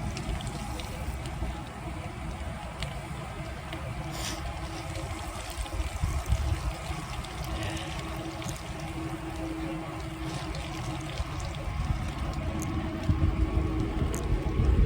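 Wind rumbling on the microphone of a moving bicycle, with scattered small clicks and a faint steady hum through the middle stretch.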